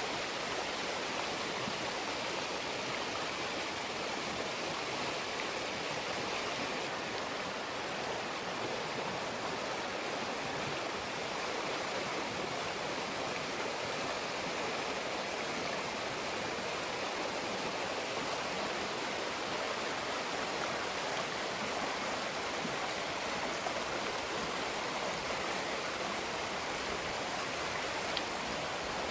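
River water rushing and splashing steadily over rocks, an even rushing sound.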